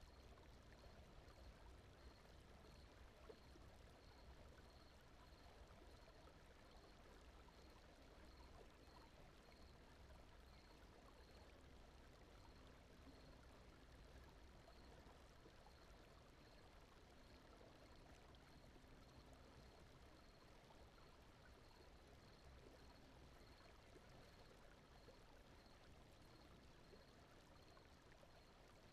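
Very faint steady rushing noise, a brown-noise sleep bed heaviest in the low end, with a faint high pulse repeating a little more than once a second.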